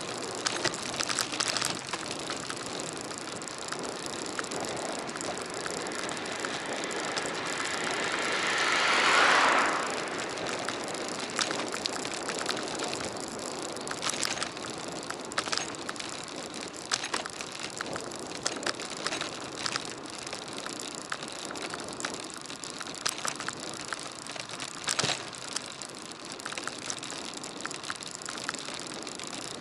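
Bicycle ride recorded on an action camera: steady wind and road noise with frequent sharp clicks and rattles from bumps. About nine seconds in, a passing vehicle swells and then quickly drops away.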